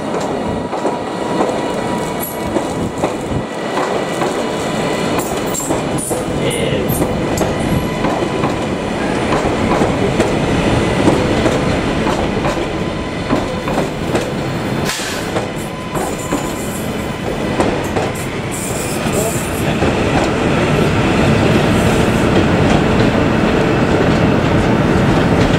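A train running on rails, wheels clicking over rail joints, with short high-pitched squeals from the wheels several times.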